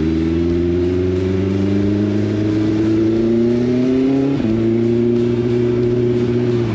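Motorcycle engine pulling under acceleration, its pitch climbing steadily, then dropping sharply about four seconds in as the rider shifts up a gear, and holding steady after.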